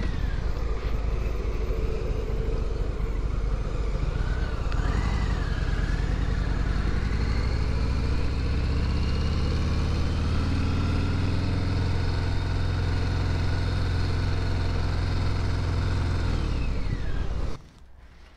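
Harley-Davidson Sport Glide's 107-cubic-inch V-twin engine running under way, its note climbing gradually as the bike accelerates through the second half. The engine sound cuts off abruptly near the end.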